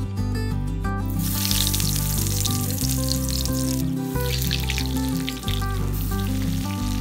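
Breaded chicken-and-potato cutlets deep-frying in hot oil: a loud sizzle starts about a second in as a cutlet goes into the oil, dips briefly about four seconds in, and stops just before the end. Guitar background music plays throughout.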